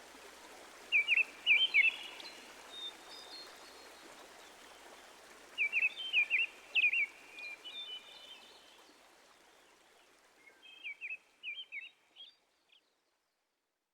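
A songbird singing three short phrases of quick, sharp notes a few seconds apart, over a steady outdoor hiss. The last phrase is fainter, and the sound fades out shortly before the end.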